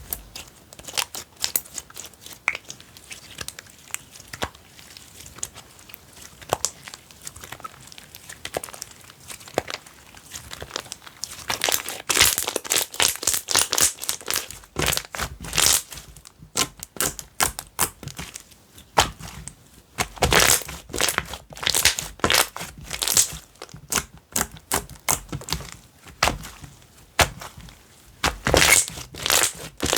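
Slime being pressed and stretched by hand, with crackling and popping of trapped air. There are faint, scattered clicks for about the first ten seconds, then louder, denser crackling bursts.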